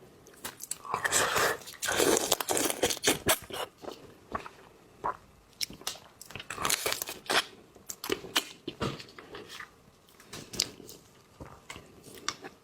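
Close-up mukbang eating sounds: a person biting and chewing seafood, with irregular clusters of crisp crunches and wet crackles and short quiet gaps between bites.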